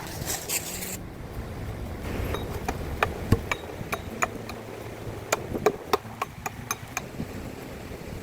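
A short scrape in the first second, then a run of irregular sharp knocks and taps, several a second, from about two and a half seconds in until near the end, over a steady low rushing background.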